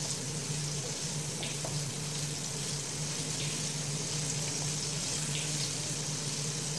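Okra pieces frying in hot oil in a nonstick frying pan: a steady sizzle, with a few light scrapes as the pieces are turned with plastic tongs. A steady low hum runs underneath.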